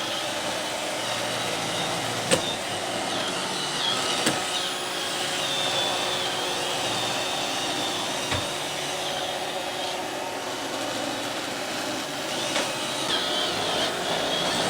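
iRobot Roomba robot vacuum running: a steady whir with a wavering high whine, broken by three sharp knocks, the first about two seconds in.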